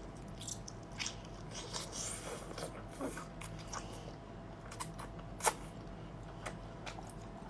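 Wet chewing, sticky mouth smacks and small clicks as a whole cooked octopus's tentacles are bitten and sucked in, with one louder smack about five and a half seconds in.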